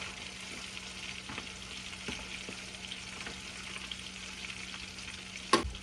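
Panko-coated catfish fillets frying in hot oil: a steady sizzle with small pops and crackles. A sharp knock sounds near the end.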